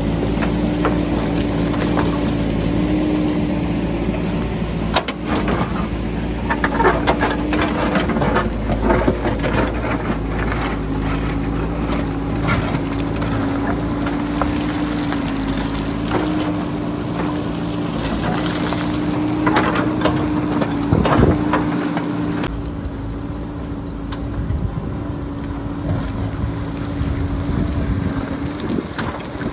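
JCB backhoe loader's diesel engine running steadily under load while its bucket cuts into a rocky hillside, with scrapes and knocks of rock against the bucket a few seconds in and again about two-thirds through. Wind buffets the microphone.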